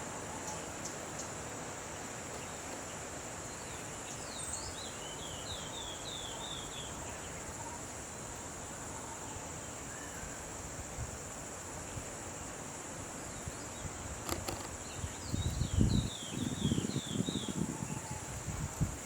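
Forest ambience: a steady, high insect drone, with a bird twice singing a quick run of short falling whistled notes. Low, uneven rumbling bursts come in over the last few seconds.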